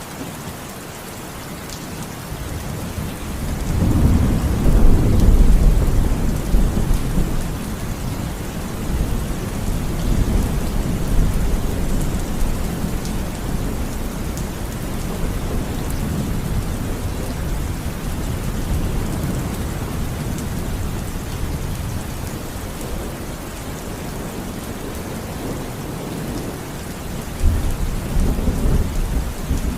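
Steady rainfall with thunder: a long, deep rumble builds a few seconds in and fades slowly, and a sharper clap comes near the end.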